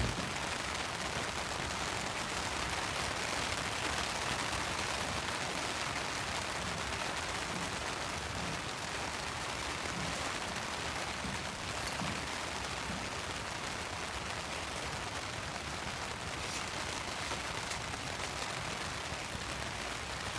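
Steady rain falling, a dense even patter of drops with scattered sharper ticks.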